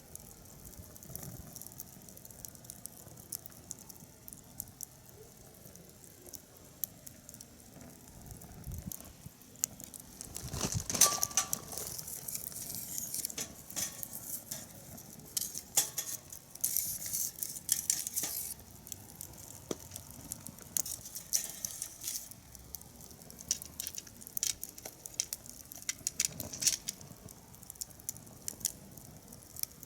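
Wood fire burning, with irregular sharp crackles and pops that thicken into a denser spell of crackling midway.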